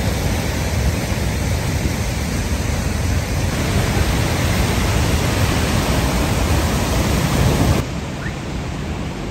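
Loud, steady rush of fast-flowing floodwater with a deep rumble. The level drops suddenly about eight seconds in.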